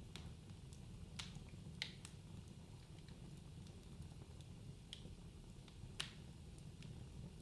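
Wood fire burning in a fireplace: a low steady rumble of flames with sharp, irregular crackles and pops, the loudest about a second in, near two seconds and about six seconds in.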